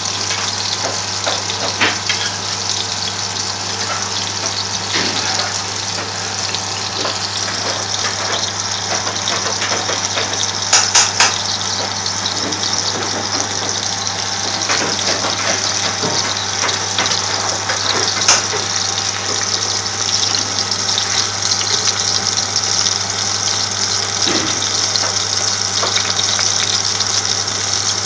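Minced-meat shami kababs shallow-frying in a little oil in a pan: a steady sizzle with scattered pops and crackles, a few sharper pops about eleven seconds in, over a steady low hum.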